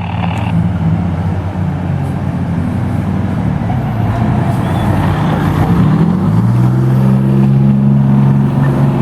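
Fire truck's engine running steadily, then revving up about six seconds in and holding at a higher pitch as it accelerates.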